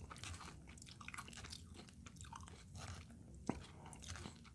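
Faint chewing and mouth sounds of a person eating, with small irregular crunches and one sharper click about three and a half seconds in.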